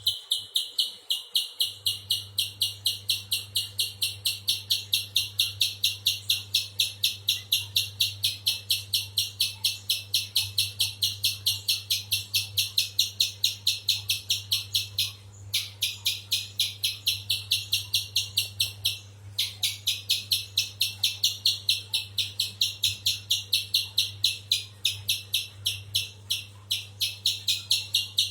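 Spiderhunter (pijantung besar) calling a long, fast series of sharp, high, identical chip notes, about three to four a second, pausing briefly twice midway, over a faint steady low hum.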